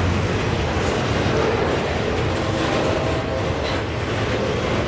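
Freight train of multi-level autorack cars rolling past close by: a steady, even rumble of steel wheels on the rails.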